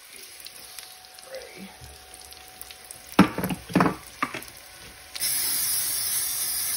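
Chopped steak and cheese sizzling on an electric griddle plate, with a few sharp clatters about three to four seconds in. Past five seconds a louder, steady sizzling hiss starts suddenly.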